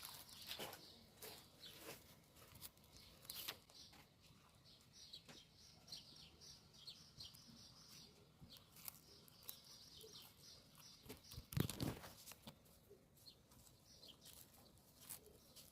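Near silence with faint scattered clicks and rustles, and one louder dull thump about twelve seconds in.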